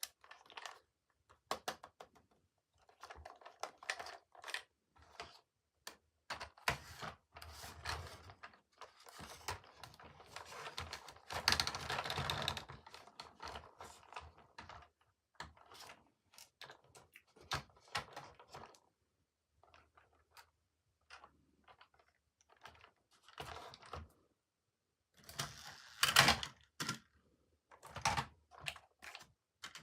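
Toys and their packaging being handled: irregular clicks and taps of small plastic pieces, with stretches of rustling, loudest about a third of the way in and again near the end.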